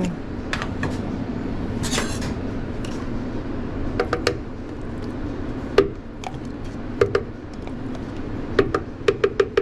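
A utensil knocking and tapping against a container as gochujang paste is scooped in, a few separate knocks and then a quick run of about five taps near the end, over a steady kitchen hum.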